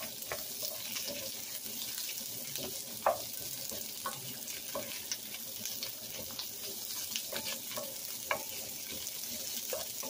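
Snow peas sizzling in hot oil in a stainless steel wok with a steady hiss, stirred with a wooden spatula that knocks and scrapes against the pan every so often.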